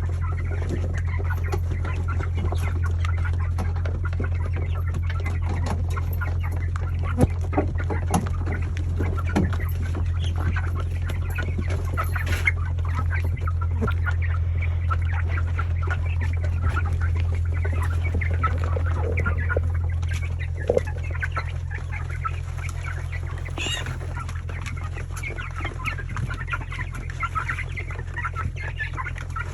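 A flock of young broiler chickens chirping and clucking continuously, over a steady low hum.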